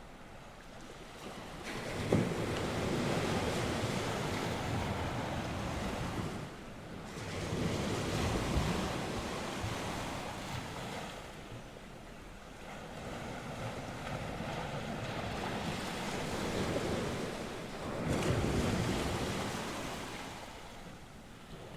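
North Sea waves washing onto the shore, breaking in swells a few seconds apart, with wind buffeting the microphone.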